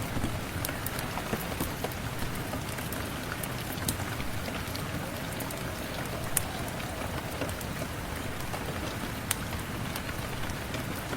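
Steady rain with scattered sharp pops and clicks a second or more apart, the crackle of a log fire mixed into the rain.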